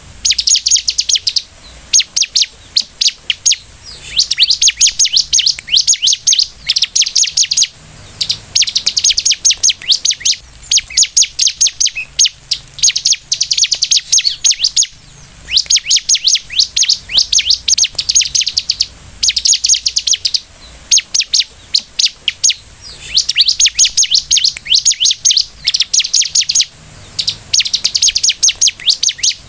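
Bar-winged prinia (ciblek) singing vigorously: rapid, high chattering trills in bursts of a second or two, one after another with short breaks.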